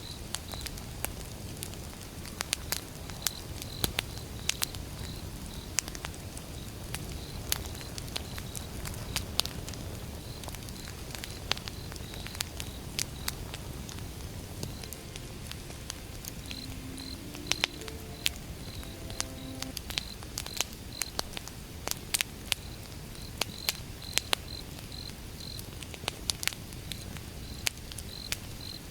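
Wood fire burning, crackling with frequent sharp pops and snaps over a low rumble. A high chirping, like crickets, repeats a few times a second throughout.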